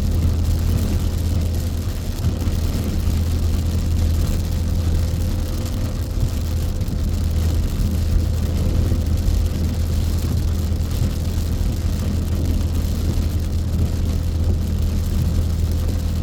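Steady low drone of a car driving at highway speed, heard from inside the cabin, with a constant hiss of tyres on a wet road.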